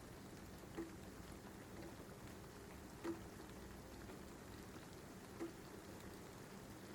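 Steady rain, faint, with a louder single drip or tap three times, about every two and a half seconds.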